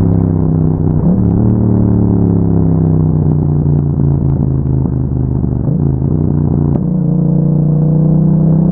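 Yamaha MT-07 parallel-twin engine running through an aftermarket Akrapovic exhaust while riding, at a fairly steady pitch that dips briefly about a second in and again around six to seven seconds in, then climbs slowly near the end.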